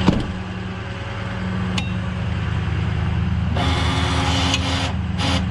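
Tow truck engine running at a raised idle to drive the winch, a steady low hum, with a sharp knock at the start. From about three and a half seconds in, a harsher noise cuts in and out in short bursts over the engine.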